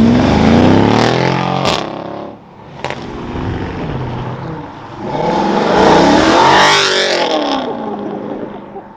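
Car engines accelerating hard: one at the start with its pitch climbing, then a second car about five seconds in, rising and then falling in pitch as it goes by.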